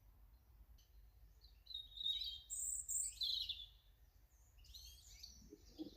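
Small garden songbird singing: a bright burst of high, fast twittering notes about two seconds in, then softer chirps near the end.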